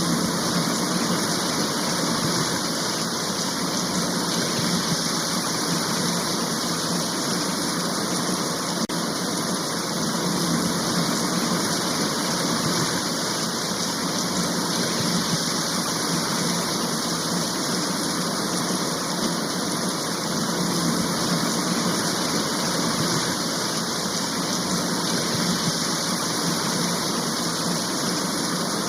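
Heavy rain shower falling steadily, an even rushing hiss with no breaks or single drops standing out.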